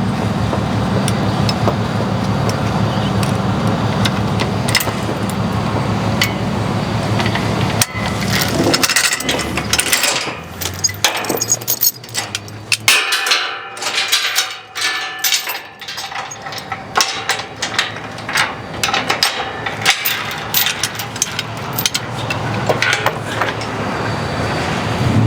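An engine idling that drops away about eleven seconds in, with repeated metal clanks and rattles of tie-down chains being handled.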